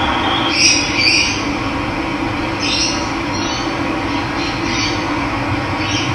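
Running water with a steady rush, and a bird giving short high calls about once a second or two over it.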